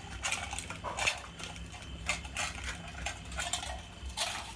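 Several dogs eating fast from their bowls: irregular crunching and chewing with bowls clattering.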